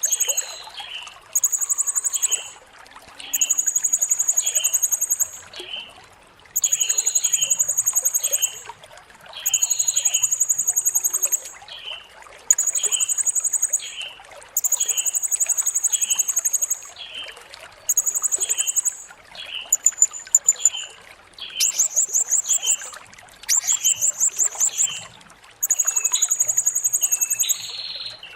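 Blue-crowned hanging parrot (serindit) giving repeated high, buzzy trilled calls, each a second or two long, with rapid stuttering notes about two-thirds of the way through. A steady series of short, lower chips runs underneath, about two a second.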